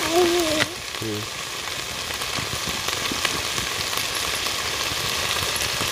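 Sliced vegetables frying in hot oil in a pot over a wood fire, a steady sizzle. A short voice sound is heard in the first second.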